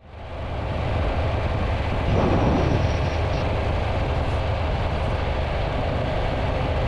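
Triumph Tiger 800 motorcycle's three-cylinder engine running under a steady rush of wind noise, fading in over the first second.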